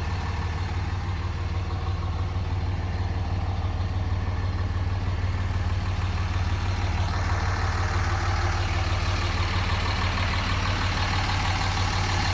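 Cummins 5.9-litre straight-six turbo diesel of a 2004 Dodge Ram 2500 idling steadily with a low, even hum. It grows a little louder and brighter about seven seconds in.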